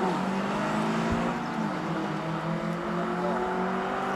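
Two cars accelerating hard at full throttle, their engines revving up in pitch with a gear change about a second and a half in, fading slightly as they pull away.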